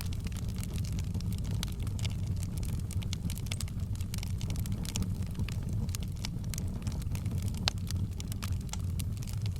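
Wood fire burning in a fireplace: a steady low rumble of flames with frequent irregular crackles and pops, one louder pop near the end.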